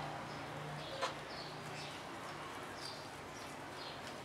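Scattered faint chirps of small birds over a low hum, with one sharp click about a second in.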